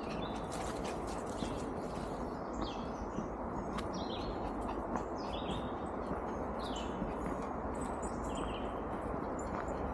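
Several wild birds chirping and calling over and over, over a steady noisy rush from the surroundings.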